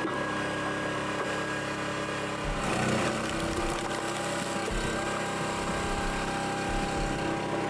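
Engine-driven firewood splitting machine running steadily, its engine and hydraulics giving a constant drone, with a louder, rougher stretch of working noise about three seconds in.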